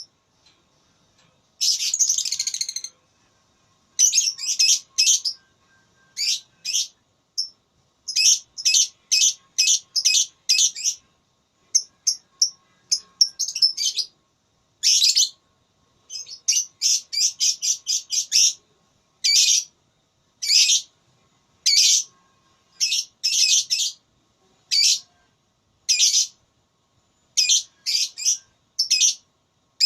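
Lovebird chattering song: high, shrill chirps in quick runs of several notes separated by short pauses, with one longer unbroken burst about two seconds in.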